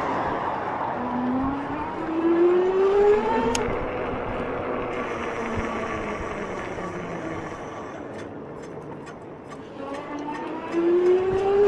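72-volt e-bike's electric motor whining, its pitch rising as the bike speeds up, from about a second in and again near the end, over a steady rushing noise.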